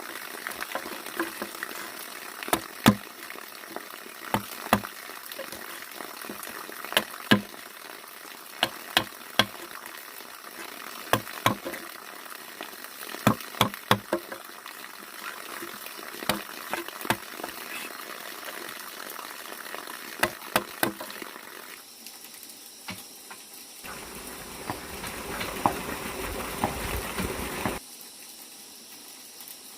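Irregular sharp knocks and taps, sometimes several in quick succession, over a steady hissing noise. Past the middle the knocks stop; a louder rushing noise then runs for a few seconds and cuts off suddenly.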